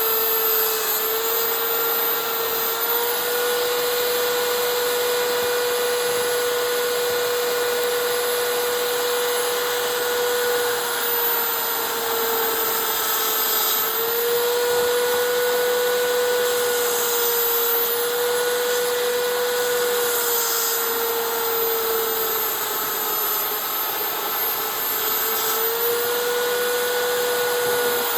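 Electric power tool running continuously while working cherry wood, a steady whine over a rough hiss whose pitch sags slightly now and then as the tool is pressed into the wood.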